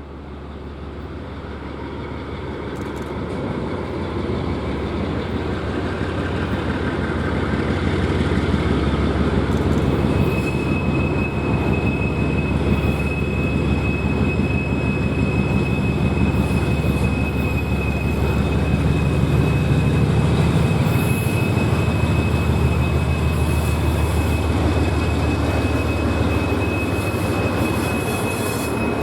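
GE B23-7 diesel locomotive and its train approaching, the engine's rumble growing louder over the first several seconds and then holding steady. About a third of the way in a steady high-pitched wheel squeal starts and continues.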